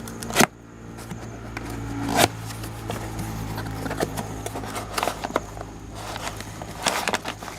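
Handling noises as car parts and their packaging are moved about: scrapes, rustles and small clicks, with a sharp knock near the start and another about two seconds in, over a steady low hum.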